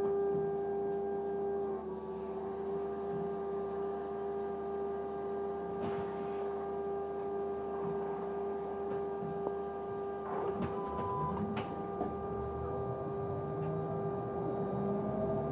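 A steady humming whine on the bus, held at one constant pitch with fainter overtones above it, over the bus's low running noise; a few short clicks come around the middle. This is the weird constant-pitch noise the bus is making.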